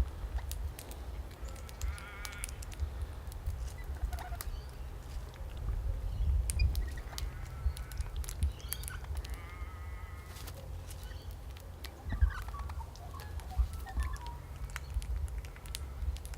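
Several feeding birds calling, with short calls of stacked pitches about two, seven and ten seconds in and small chirps near the end. Scattered light ticks and a steady low rumble run underneath.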